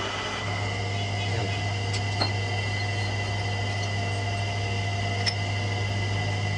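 A workshop machine's electric motor running steadily with a low hum and a thin high whine. The hum firms up just after the start, and two light clicks come about two and five seconds in.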